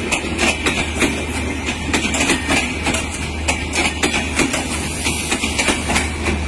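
Bangladesh Railway intercity passenger coaches rolling past close by: steel wheels clatter over the rail joints in a run of quick, uneven knocks, over a steady low hum.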